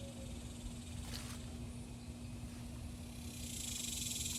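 Insects chirring outdoors: a dense, pulsing high chorus that swells in near the end, over a steady low hum and rumble, with a brief rustle about a second in.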